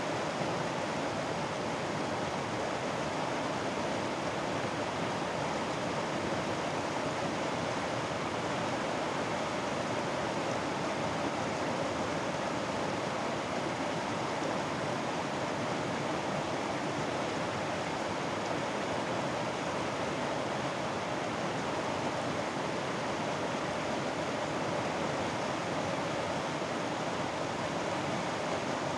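Mountain stream rushing over rocks, a steady, unbroken water sound.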